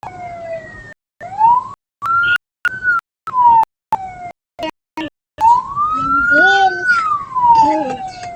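Siren of the military police escort vehicle wailing, its pitch slowly rising and falling. For the first five seconds the sound cuts out again and again, then runs unbroken.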